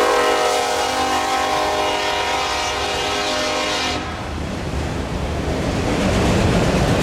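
Freight locomotive air horn sounding a long blast that cuts off about four seconds in, followed by the rumble and rattle of the train rolling by, growing louder near the end.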